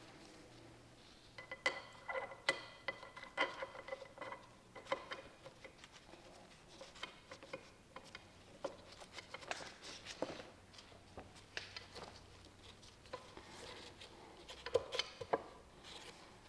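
Irregular light metallic clinks and taps of small bolts and transmission parts being handled and set in place by hand, some with a short ring.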